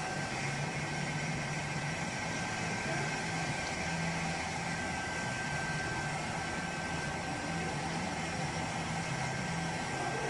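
Steady low mechanical hum under an even hiss, with a faint thin high tone held throughout.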